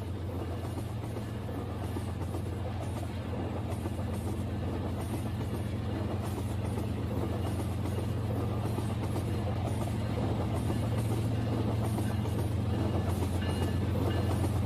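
Battery-powered Rail King toy train running on its track, a steady motor hum with a rattly whirr that grows slowly louder.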